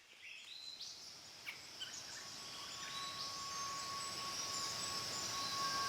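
Rainforest ambience: a steady high-pitched insect chorus that grows louder, with a few short bird chirps in the first two seconds and a thin steady tone joining about two seconds in.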